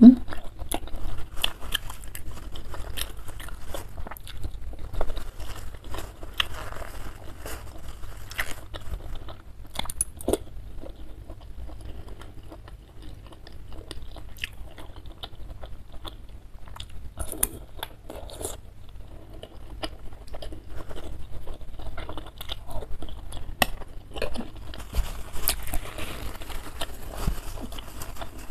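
Close-miked eating sounds: chewing and biting of bakso meatballs and boneless chicken feet in spicy noodle soup, with many short wet clicks of mouth and spoon.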